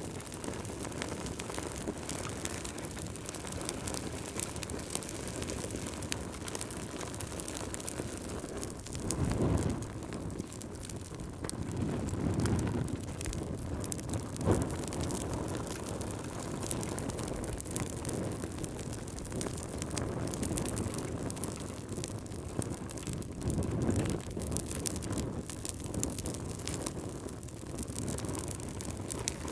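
Campfire burning: a steady low rush of flame with frequent sharp crackles and pops from the burning wood, swelling louder a few times.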